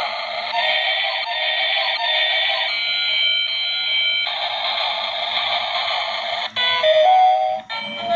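Battery-powered toy train playing its built-in electronic tune through a small, tinny speaker. The notes change step by step, and a louder, choppier passage comes near the end before a new melody starts.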